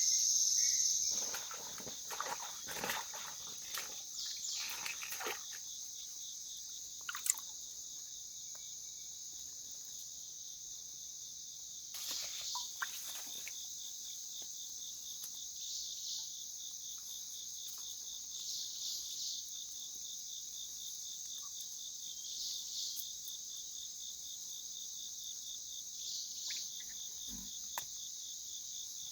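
Steady high-pitched chorus of insects, likely crickets, shrilling without a break. A few brief rustles and knocks come now and then, mostly in the first few seconds and around the middle.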